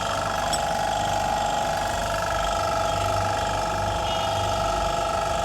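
Car engine running steadily, a constant even hum.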